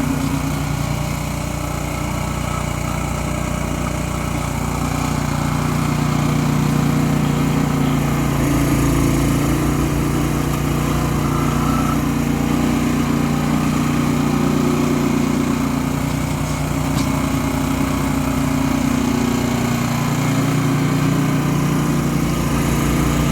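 Gas snow blower engine running steadily as it clears loosened, compacted snow, its engine note shifting slightly now and then.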